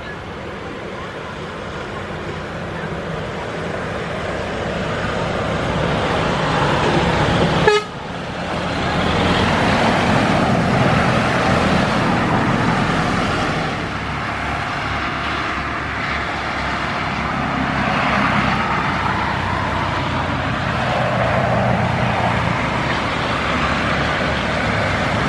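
Boeing 787 Dreamliner's jet engines running at high power, a loud steady roar that builds over several seconds. It breaks off abruptly about eight seconds in, then comes back louder and denser.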